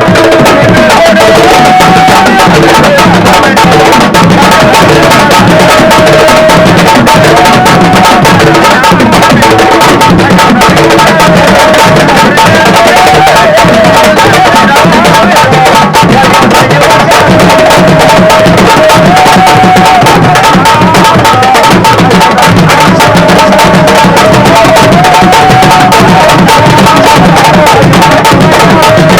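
Sabar drum ensemble playing a fast, dense rhythm, loud throughout, with a wavering pitched melody that rises and falls and repeats above the drums.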